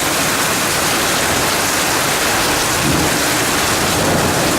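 Heavy rain pouring down steadily in a thunderstorm, a loud, even hiss, with a brief low rumble about three seconds in.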